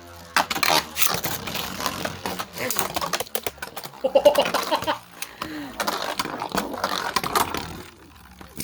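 Beyblade spinning tops clashing and rattling against each other and the plastic stadium walls, a dense run of rapid clicks and knocks that stops near the end as the battle ends.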